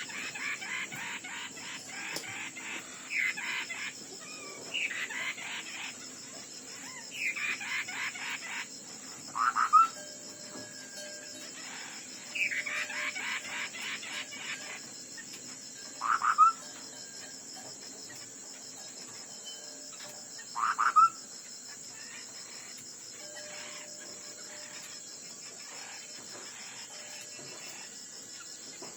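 Hwamei (họa mi đất) singing in its combative song: bursts of rapid, scratchy phrases over the first half, then short, loud upslurred notes every four to five seconds. A steady high-pitched hiss runs underneath.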